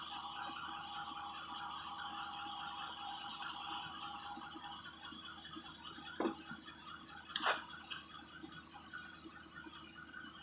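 Steady chorus of night insects, a dense rapid chirring with a constant high whine above it. Two short faint knocks stand out about six seconds in and again a second later.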